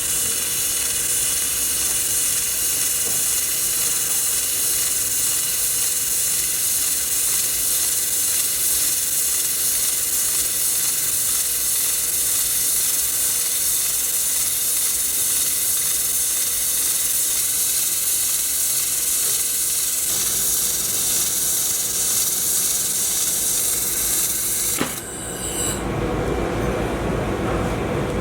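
Handheld laser welding machine running: a steady high hiss with a faint steady hum under it. About 25 seconds in it cuts off with a click, and a lower rumbling noise takes over.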